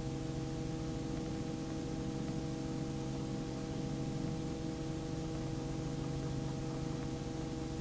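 Robinson R44 helicopter hovering: a steady hum made of several steady tones over a faint hiss, unchanging.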